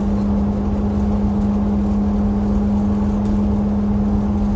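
Steady machine hum at one constant pitch over an even low rumble.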